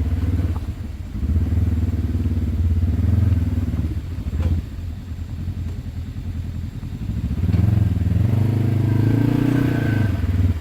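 Polaris RZR side-by-side engine revving hard under throttle while the machine tries to climb a slick, muddy slope. It comes in two long pushes, easing off for a few seconds in the middle.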